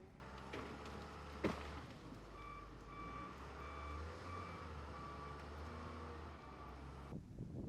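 A vehicle's reversing alarm beeping about twice a second over a low, steady engine hum, with one sharp click near the start.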